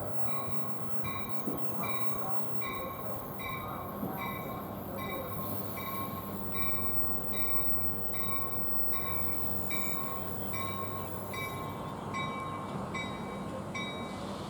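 A train with a steady hum, with a bell dinging evenly about one and a half times a second throughout.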